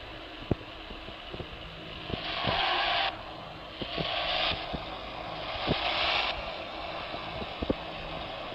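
Steady running noise of a car on the road, with scattered light clicks and three short bursts of hiss about a second and a half apart, starting a couple of seconds in.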